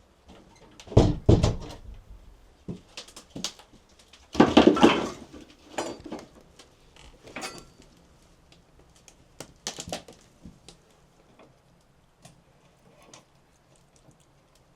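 Irregular knocks, thuds and clatter of objects being handled and set down, with a longer rough scraping burst about four and a half seconds in and lighter clicks after.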